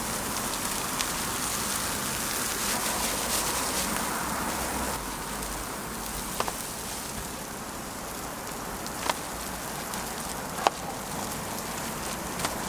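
Steady sizzling of food frying on a flat griddle, with a few sharp clicks, the loudest about two-thirds of the way in.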